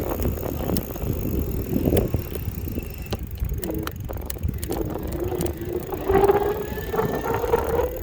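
Electric bike riding along, with wind and tyre rumble and occasional knocks from the road. About halfway through, the motor's whine comes in and rises slowly in pitch as the bike speeds up.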